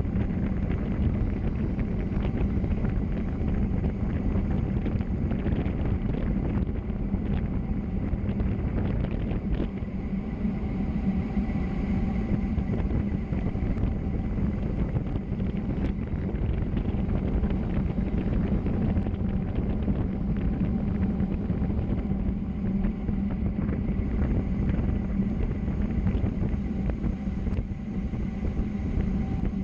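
Steady rush of wind on the microphone mixed with road and tyre noise during a fast downhill descent, with a constant low drone and no breaks.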